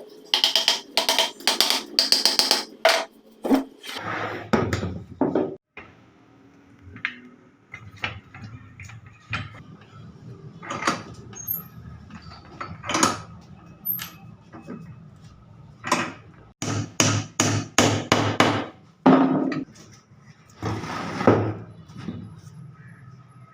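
Irregular knocking and tapping in clusters of quick strikes with pauses between, like work with hand tools at a bench.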